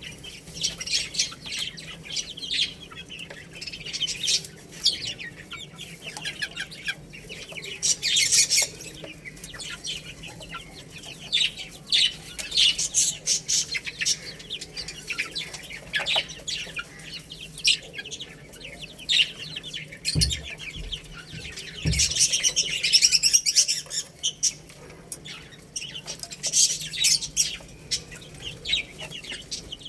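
A group of baby chicks chirping, many short high peeps overlapping throughout, with a denser, louder spell of chirping a little past the middle. Two brief low thumps come about two-thirds of the way in.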